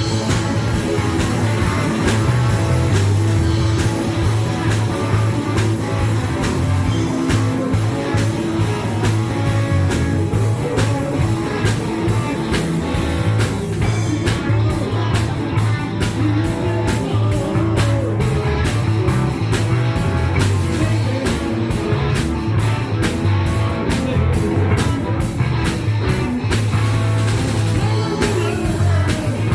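Live rock band playing a song with electric guitar, bass and drums, loud and steady, the drum beats standing out through the second half.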